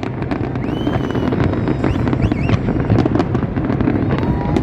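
Large fireworks display: rapid cracks and pops of bursting shells over a steady low rumble, with a couple of brief whistling glides about one and two seconds in.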